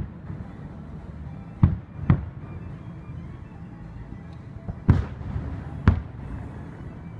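Aerial firework shells bursting: five sharp bangs, two of them close together about two seconds in.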